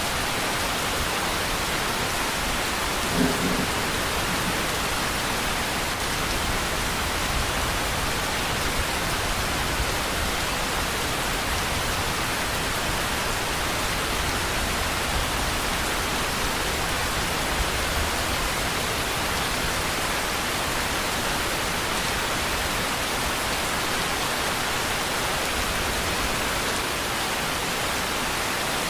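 Steady rain falling, an even hiss of many drops without a break, with a brief low sound about three seconds in.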